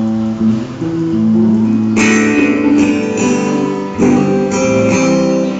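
Instrumental intro of a slow ballad: guitar chords ringing, with a strong strum about two seconds in and another just before four seconds in.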